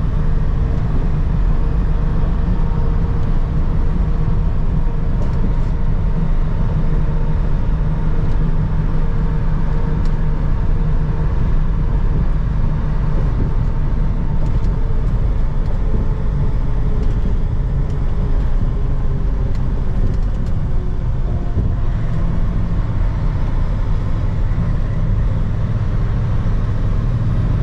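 Semi truck's diesel engine and road noise while it cruises pulling a loaded dry bulk tanker: a steady, unbroken drone.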